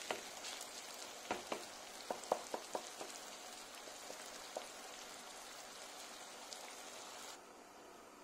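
Tomato sauce with shrimp and eggs (ojja) sizzling in a frying pan, a steady crackle with a quick run of sharp clicks about one to three seconds in. The sizzle cuts off abruptly shortly before the end.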